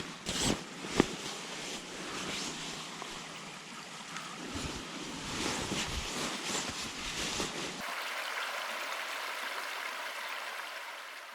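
Steady outdoor rushing noise with a few low thumps in the first seconds. About eight seconds in it changes to a softer, thinner hiss, then fades out near the end.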